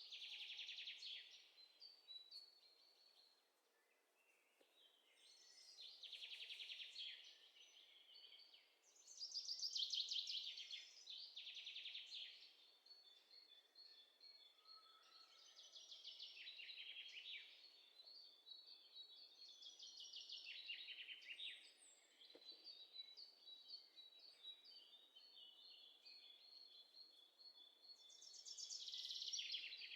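Faint birdsong: short, rapid trilled phrases repeated every few seconds, with thin, steady high notes between them.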